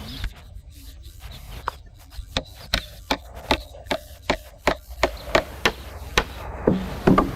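A quick, even series of sharp knocks, nearly three a second, starting about two seconds in, with a couple of heavier knocks near the end: tool strikes on wood.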